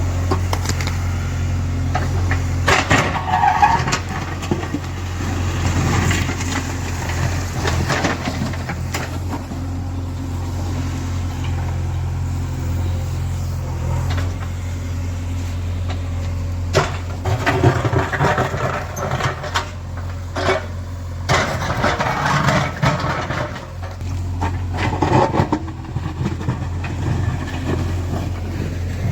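JCB 3DX backhoe loader's diesel engine running steadily at work, with repeated short bursts of clattering from the machine, several of them in the second half.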